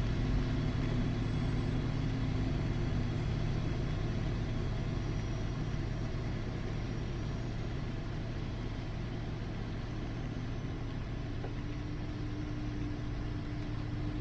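A steady low engine hum that slowly fades.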